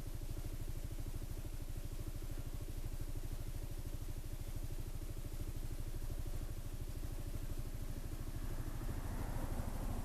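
Honda SH 300i scooter's single-cylinder engine idling steadily, with an even, fast low pulse.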